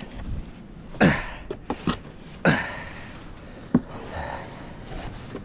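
A man's heavy breathing after shovelling snow: three loud voiced exhales or grunts, each falling in pitch, about a second and a half apart, with a few small clicks between them.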